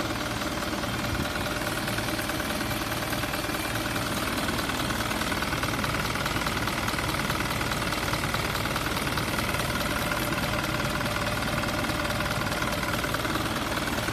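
2005 Mazda Titan truck's engine idling steadily.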